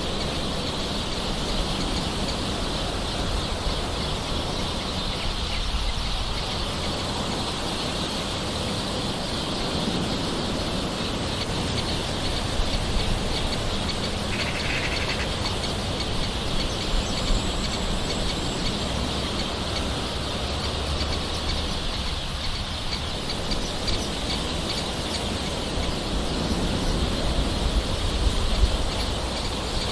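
Steady gentle rain with birds calling in the background, a few short calls standing out.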